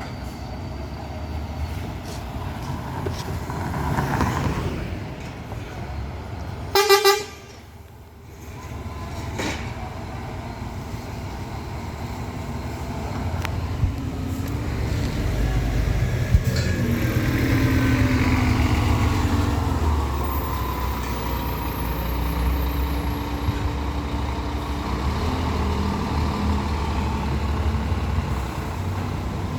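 Diesel engine of a Scania K420 coach running in street traffic, getting louder about halfway through as it moves off. A vehicle horn toots once briefly about seven seconds in.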